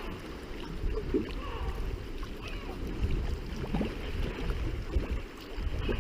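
Sea kayak paddle blades dipping and pulling through sea water in regular strokes, with wind rumbling on the microphone.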